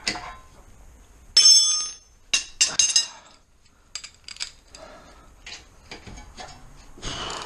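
Steel hand tools and a brake caliper bolt clinking as the loosened 19 mm bolt is worked free with a breaker bar and socket. One loud ringing clink comes about a second and a half in, then a quick run of sharp clinks, then lighter clicks.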